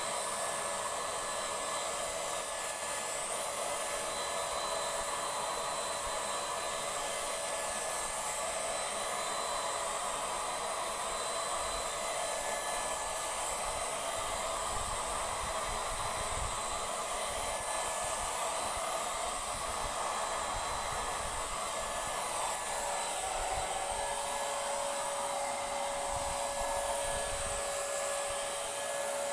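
Paint Zoom handheld electric paint sprayer running steadily, its motor's whirring hiss with a faint steady whine that dips a little in pitch about two-thirds of the way through.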